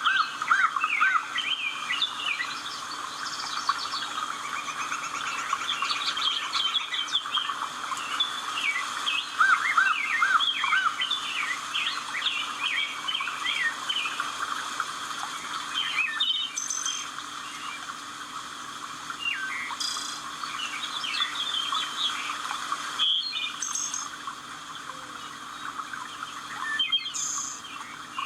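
Several wild birds chirping and singing at once, many short overlapping calls and trills over a steady background hum.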